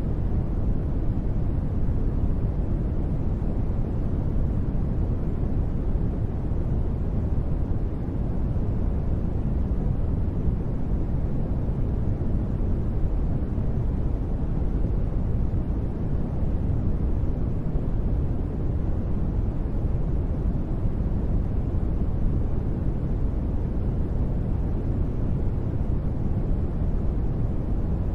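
Steady synthetic sleep noise, a deep, even rush weighted toward the low end, with no changes or sudden sounds.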